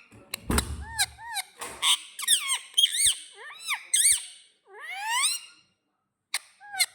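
A pet parrot whistling and chirping: a quick string of short whistles that bend up and down, then a long rising whistle about five seconds in.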